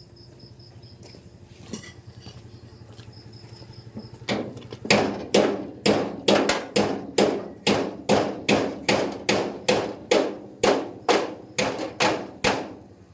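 Hammer blows in a steady run of about two a second, starting about four seconds in, each ringing briefly, as a sidecar is repaired.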